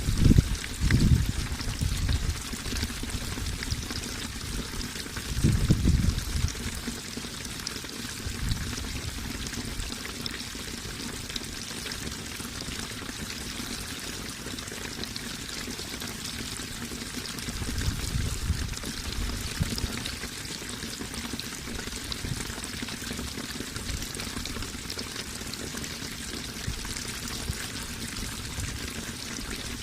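Running water pouring and trickling steadily, with a few louder low rushes: one at the start, one about six seconds in, and one around eighteen seconds in.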